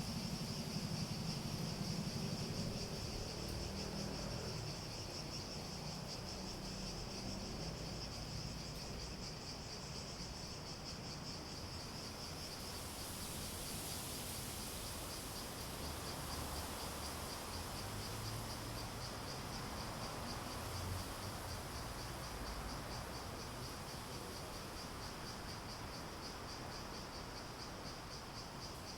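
Cicadas calling in a steady, high-pitched pulsing drone; about halfway through a second, higher hissing chorus joins in. A low rumble underneath fades out in the first few seconds.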